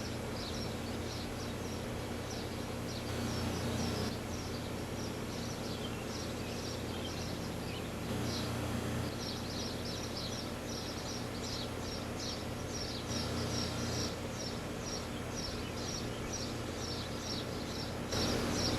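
Outdoor unit of a 4-ton R22 central air-conditioning system running with a steady hum from its compressor and condenser fan. Short high chirps repeat about twice a second through the second half.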